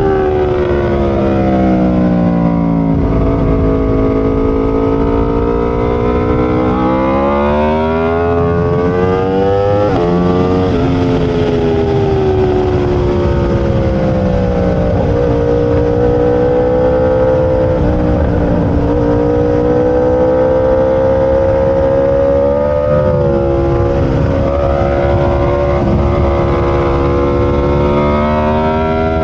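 Aprilia RSV4 superbike's V4 engine at race pace, the revs repeatedly climbing and dropping as it works through the gears on track.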